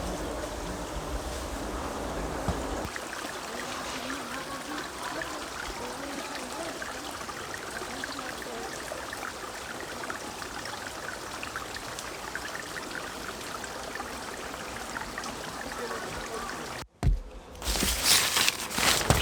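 A mountain valley stream flowing steadily. About two seconds before the end it cuts off abruptly and gives way to a louder rushing noise.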